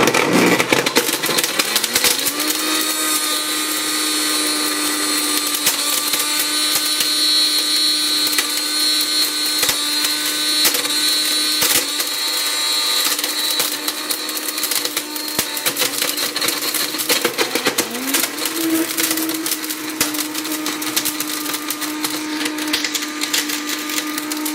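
Electric blender motor spinning up and running hard with a Samsung Galaxy S7 Edge phone inside the jar, with many sharp knocks and clicks as the phone is battered. The motor is struggling under the load: its pitch sags about seventeen seconds in, then climbs back.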